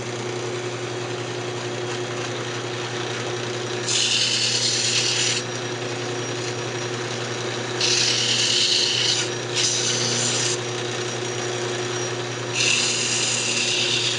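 Wood lathe running at low speed with a steady hum while sandpaper is pressed against the spinning maple lid. The sanding comes in four scratchy passes of a second or so each, and each pass is louder than the hum.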